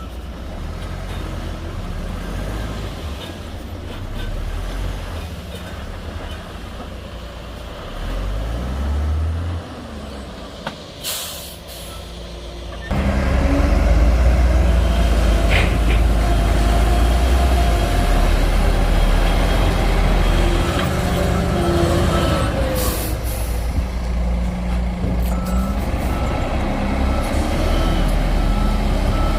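Bulldozer's diesel engine running under work, a heavy low rumble that jumps suddenly louder about halfway through. A reversing alarm beeps steadily near the start and again through the last third.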